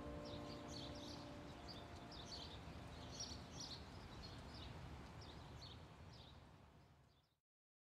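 Faint birdsong, repeated short high chirps over a low background hiss, fading out near the end. A last held note of background music dies away in the first second.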